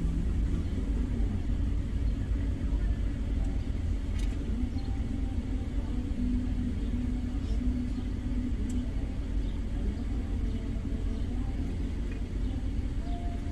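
Steady low rumble of an idling car, heard from inside its cabin.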